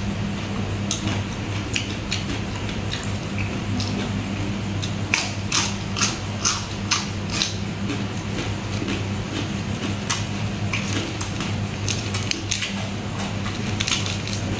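Close-up chewing of crunchy raw vegetables such as pea eggplants: a string of sharp crunches and mouth clicks, thickest a few seconds into the middle. A steady low electrical hum runs underneath.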